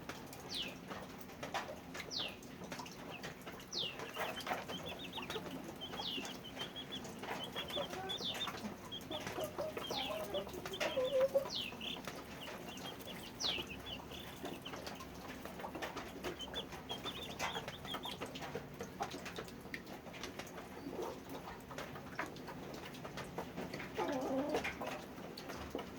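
Chickens calling. High, short, falling peeps repeat every second or two, and a few low clucks come in about halfway through and again near the end.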